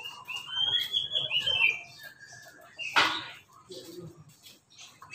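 A bird singing: quick runs of high, short chirping notes with slight pitch glides, pausing in the middle and starting again near the end. A brief noisy burst comes about three seconds in.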